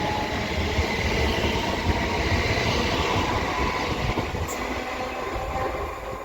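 Pair of Class 387 electric multiple units pulling out: a steady rumble of the train with faint whining tones, easing off a little over the last couple of seconds, and one brief click about four and a half seconds in.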